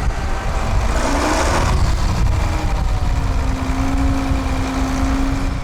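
Tractor engine running, with a brief swell in sound about a second in and a steady engine note holding through the second half, over a heavy low rumble.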